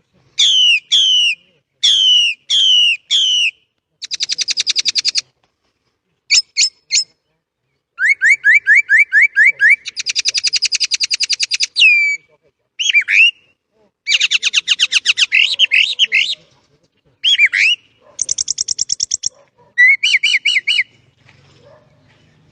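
Jalak (starling) singing a varied, rolling song: a run of repeated downward-slurred whistles, then fast trills of rising chirps and rapid rattling series, broken by short pauses, with the song stopping shortly before the end.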